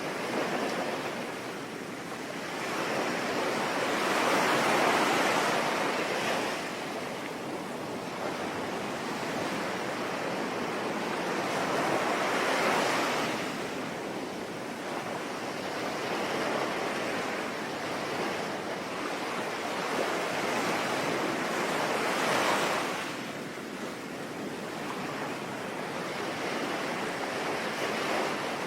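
Sea waves breaking and washing back in slow surges about every eight seconds, three swells in all, over a steady hiss of rain.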